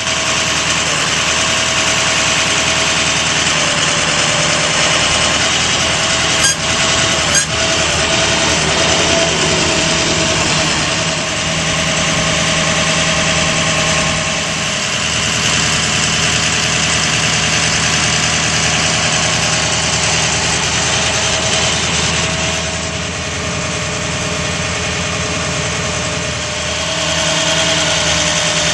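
Ford F550's 6.0L Power Stroke V8 turbo-diesel idling steadily, with two sharp clicks about a second apart a little before the middle.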